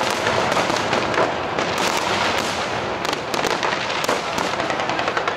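Fireworks display: many aerial shells bursting in quick, overlapping succession, a dense and unbroken crackling and popping.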